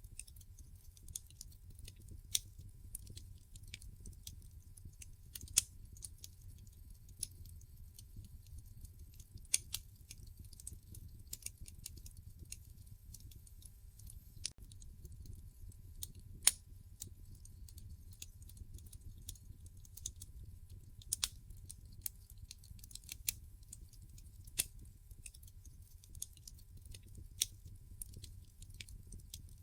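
Wood fire in a fireplace crackling: irregular sharp pops and snaps, a few of them louder, over a low steady rumble of the flames.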